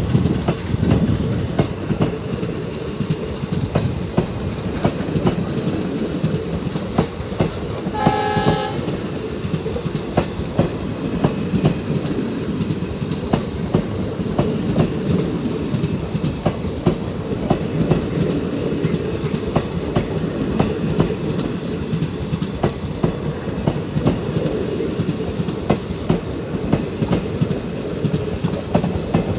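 Passenger coaches of an express train rolling past, their wheels clattering steadily over the rail joints. A short horn blast sounds once, about eight seconds in.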